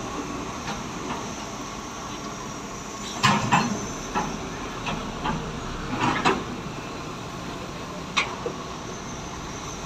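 A steady background drone with a run of sharp knocks and clunks, bunched between about three and six and a half seconds in, and one more a little after eight seconds.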